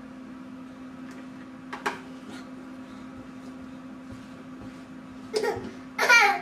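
A toddler's two short vocal sounds near the end, made while he tries to climb onto a ride-on toy, over a steady low hum, with a single click about two seconds in.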